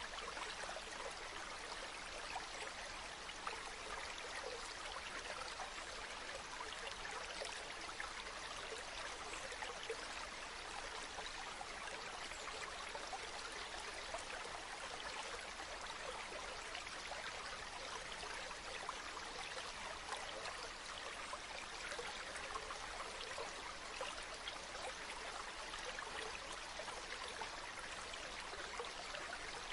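Water running in a stream: a steady, even flow with no pauses or changes.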